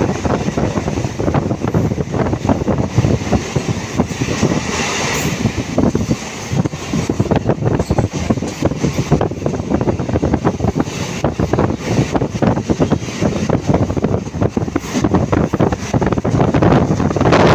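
A moving train running: a steady rumble with dense, rapid rattling and clatter, and wind buffeting the microphone.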